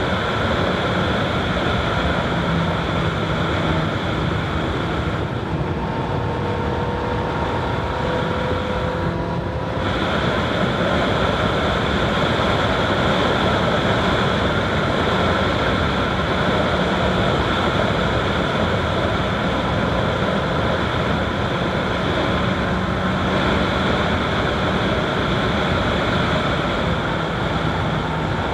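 Honda CBR1000RR SP's inline-four engine running while the bike is ridden at a fairly steady pace, heard through a bike-mounted microphone with wind noise mixed in. The engine note drifts a little in pitch, with a brief dip about nine seconds in.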